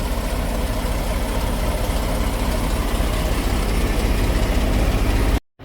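Semi truck's diesel engine idling steadily, then cutting off suddenly near the end.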